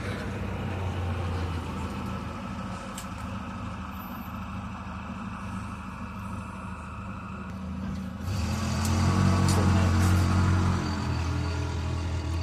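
A steady engine hum, swelling louder for a few seconds about eight seconds in, with a few light clicks.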